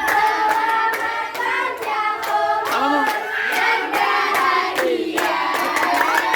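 A group of students clapping along while many young voices sing or chant together.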